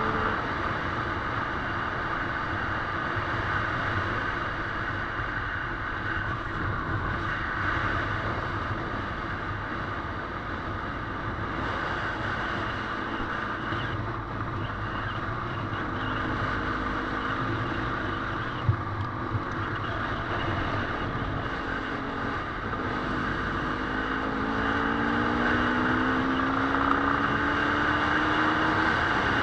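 Dirt bike engine running steadily during a trail ride, with wind noise on the microphone. Near the end the engine note climbs, and a single sharp knock comes a little past the middle.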